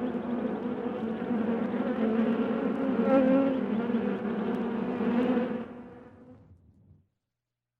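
Honeybees buzzing around a hive in a steady, pitched hum that fades out about six seconds in and stops.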